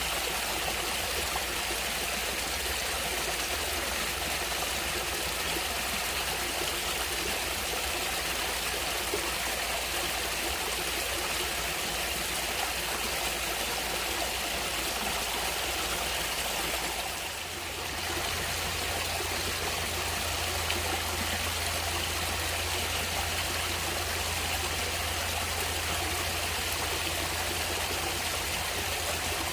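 Natural stream water flowing steadily, an even rush of running water, dipping briefly a little over halfway through.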